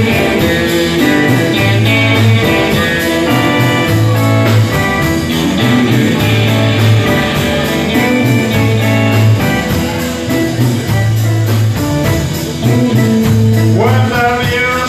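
Live rock band playing: electric guitar lines over a bass figure that repeats on and off, with a singing voice coming in near the end.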